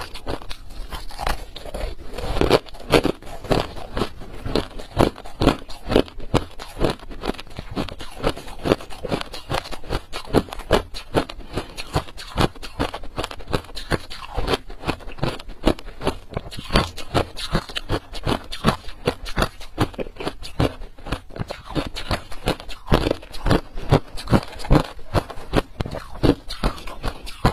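A person biting and chewing ice: many sharp crunches in quick succession, without a break.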